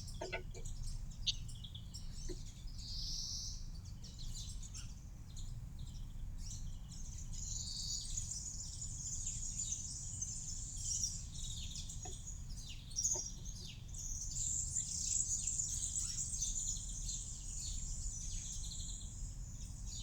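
Small songbirds chirping and twittering in a continuous high chorus of many short overlapping calls, which grows denser about halfway through, over a steady low background rumble.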